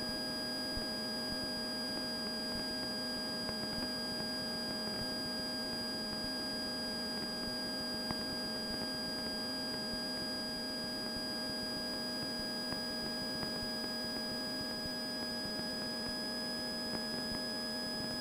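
Steady in-flight cabin noise of a Cessna 172 in climb, heard through the intercom audio feed: a muffled drone from the engine and propeller under a constant electronic whine made of several fixed tones.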